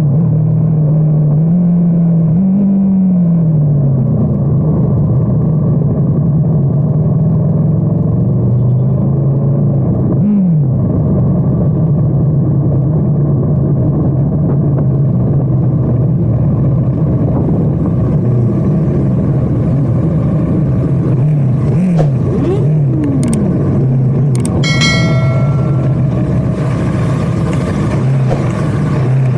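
Superbike engine running steadily while riding, with its pitch rising and falling briefly a few times as the throttle changes. A short high-pitched tone sounds near the end.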